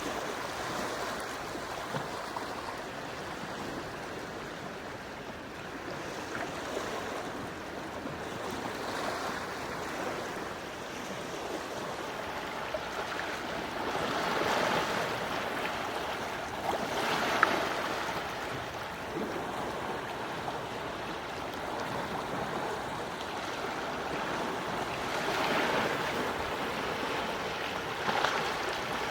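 Quiet sea waves washing onto the shore: a steady rush of water that swells several times as waves break and draw back.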